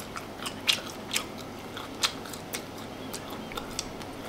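A person chewing a bite of smoked rump steak: a string of short, irregular mouth clicks and smacks.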